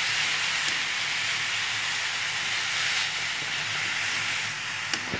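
Grated vegetables sizzling in hot oil in a kadhai as they are stir-fried: a steady hiss, with a few light ticks.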